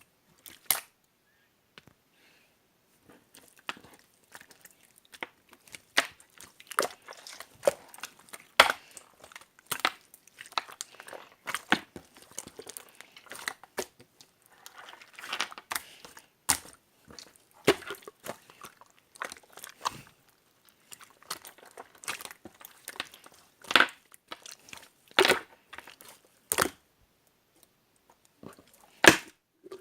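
Clear blue slime being squeezed and stretched by hand, giving irregular squelchy pops and sharp clicks as trapped air bubbles burst.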